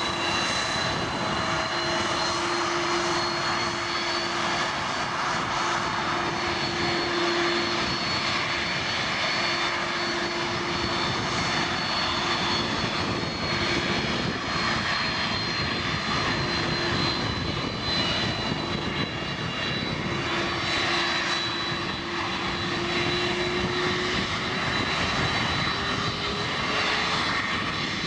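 Airbus A330-200 jet engines (General Electric CF6 turbofans) running steadily, a continuous rush with a low hum and a high whine that hold nearly level throughout.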